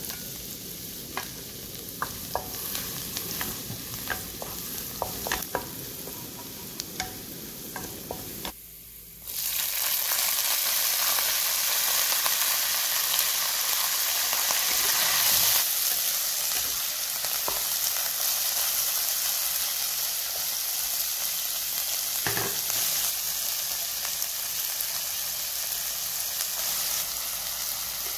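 Minced garlic sizzling in oil in a nonstick wok, with scattered sharp clicks. About a third of the way in, the sound drops briefly, then gives way to a much louder hissing sizzle as water spinach is stir-fried in the hot pan with a wooden spatula.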